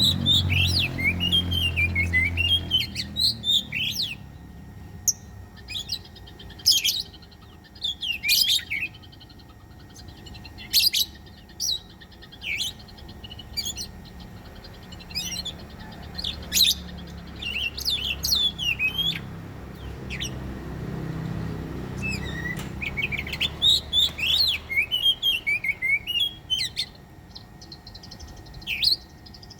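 Oriental magpie-robin (kacer) singing: loud, varied whistled phrases and sharp chirps in quick bursts with short pauses between them. A low rumble sits underneath at the start and again in the middle.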